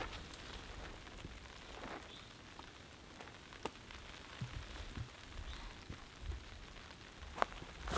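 Light rain falling, a steady soft hiss with a few separate sharp ticks.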